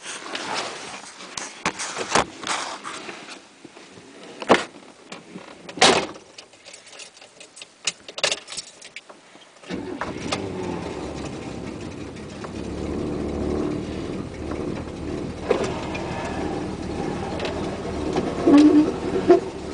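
Scattered knocks and clicks inside the car, then about halfway through the Cadillac Calais's 472 V8 starts up and runs with a steady low rumble, heard from inside the cabin.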